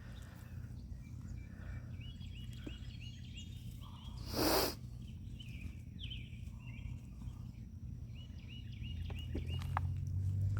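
Garden ambience: a bird singing runs of short repeated chirps in the background, with one brief loud rustling scrape about four seconds in while potatoes are being dug out of the soil. A low steady hum rises slightly near the end.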